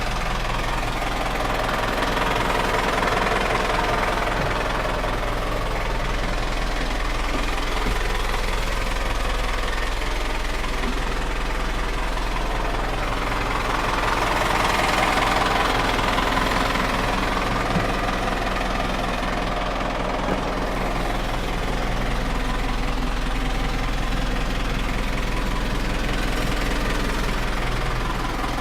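Diesel engine of a 2006 Hino Dutro garbage truck running steadily at idle, growing a little louder for a few seconds around the middle.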